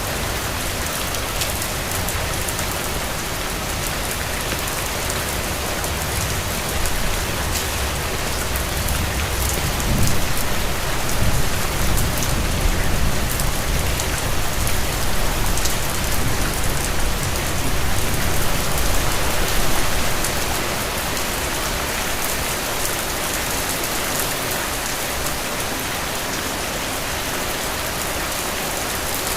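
Steady rain falling in an even hiss. A low rumble swells up about a third of the way in and dies away about ten seconds later.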